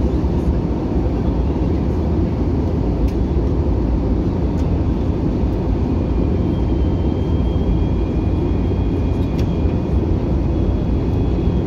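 Steady rumble of an Airbus A321-200's jet engines and airflow heard from inside the passenger cabin, with a faint high, steady whine joining about halfway through.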